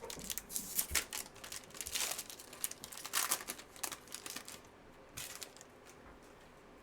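Trading-card pack wrapper crinkling and tearing as it is opened by hand, a run of irregular rustles that dies down about four and a half seconds in, with one more short rustle a little after five seconds.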